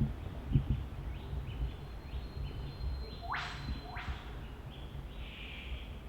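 Rainforest birds calling: a thin, held high whistle, then two sharp whip-crack calls that sweep steeply upward about a second apart, with short chirps around them. Low thumps run underneath.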